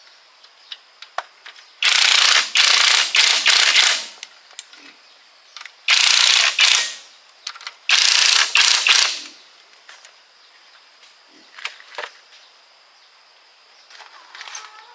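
Compressed-air tool run in three loud bursts of a second or two each, with scattered clicks and taps of metal parts between them. A cat meows faintly near the end.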